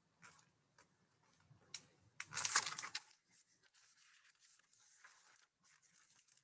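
A page of a picture book being turned: one short paper rustle about two seconds in, with a few faint ticks around it and near silence otherwise.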